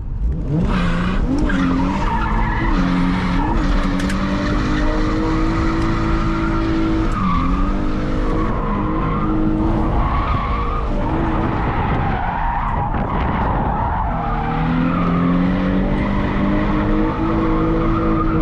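Drift car's engine revving hard, its pitch climbing and dropping again and again, while the rear tyres skid and squeal under wheelspin.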